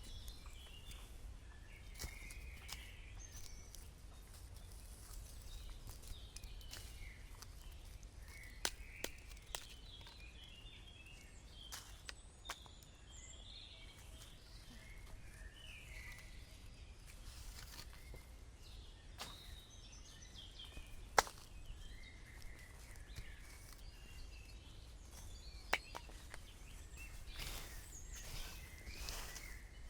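Faint woodland ambience: birds chirping on and off. A few sharp clicks or snaps stand out, the loudest about 21 seconds in.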